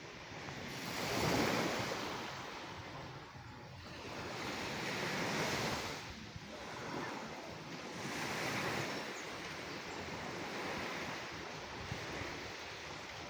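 Ocean surf: waves swelling and breaking in turn, about every three seconds, the first surge the loudest.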